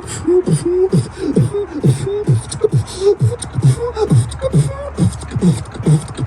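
Solo beatboxing: a steady vocal beat of short falling bass sweeps, about three a second, with crisp hi-hat-like hisses between them.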